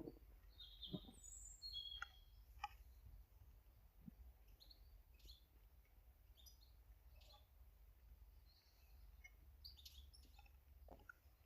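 Faint, scattered short chirps of garden birds at a feeder, over a low steady hum.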